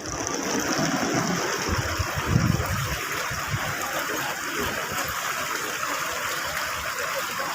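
Fountain water splashing steadily into a pond, with some low rumbling in the first three seconds.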